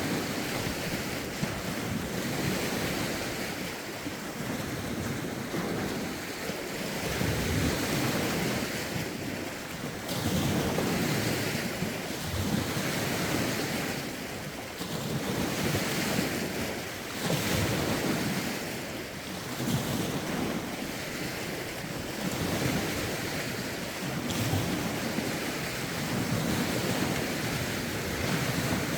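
Lake waves lapping and breaking against the shore in a steady run of swells a few seconds apart, with rough wind buffeting the microphone.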